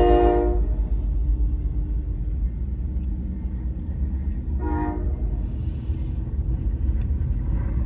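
Freight train locomotive horn sounding a chord that cuts off about half a second in, then a steady low rumble of the train rolling past, with one short horn toot about five seconds in.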